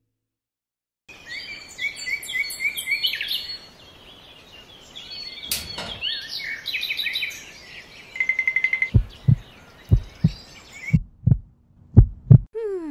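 Small birds chirping and calling over a steady outdoor hiss, with a short trill about two-thirds of the way in. Near the end comes a run of short, loud, low thumps.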